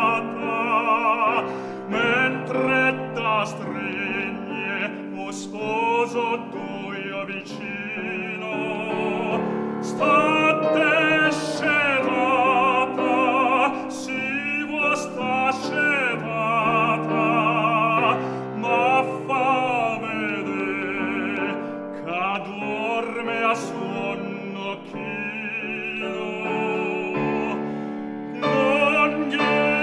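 Operatic tenor singing a Neapolitan song with piano accompaniment, in long phrases with a wide vibrato.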